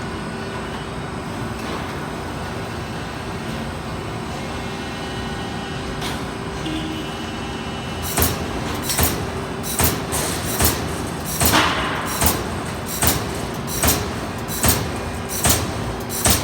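Amada Pega 367 CNC turret punch running with a steady hum, then from about halfway through punching sheet metal: a regular series of sharp hits, about one every 0.8 seconds.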